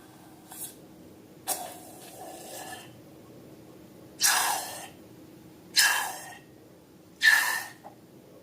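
A series of short hissing bursts of air, five in all, each about half a second long and fading away, the last three the loudest.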